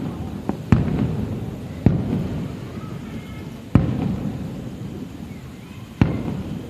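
Fireworks shells bursting: several sharp booms a second or two apart, each followed by a low rolling rumble that dies away.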